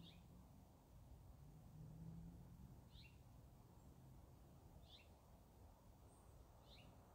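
A small bird calling faintly, a short falling chirp repeated four times about two seconds apart, over quiet outdoor background noise.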